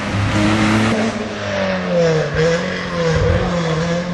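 Car engine running hard, its pitch dipping and rising several times as it revs.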